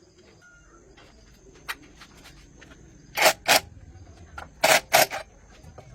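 Sharp knocks: a lighter one, then two pairs of loud strikes, each pair about a third of a second apart, in the second half.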